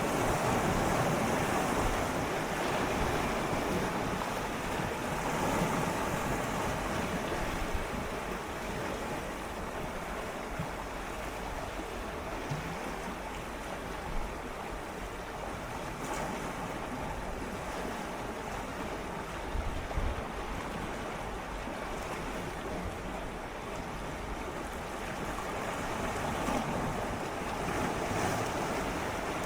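Gentle ocean waves swirling and lapping against shoreline rocks, a steady wash that swells and eases slowly, with a few small splashes and a little wind on the microphone.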